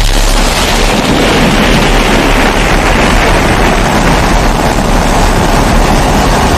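Pressurised kerosene stove (babour) burner running with a loud, steady rushing noise and a low rumble underneath.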